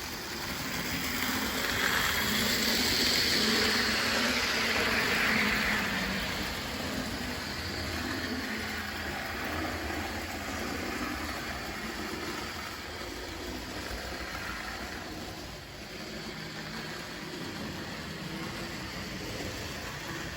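HO-scale model train running on Kato track, a steady motor-and-wheel running sound that grows louder for a few seconds about two seconds in as the train passes close, then carries on more quietly.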